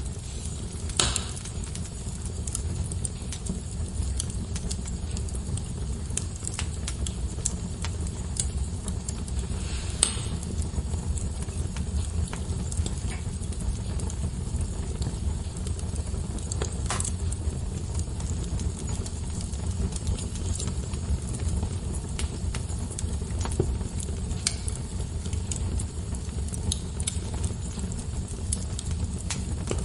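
Wood fire burning in a fireplace: a steady low rumble of the flames with scattered crackles and snaps, a few louder pops about a second, ten seconds and seventeen seconds in.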